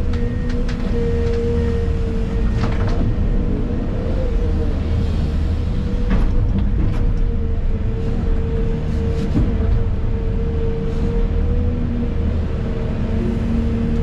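An excavator's diesel engine running steadily, heard from inside the cab, with a constant whine over the engine rumble. A few short clanks and knocks come through now and then.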